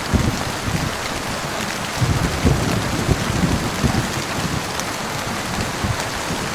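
Thunderstorm: steady rain falling, with low thunder rumbling on and off underneath.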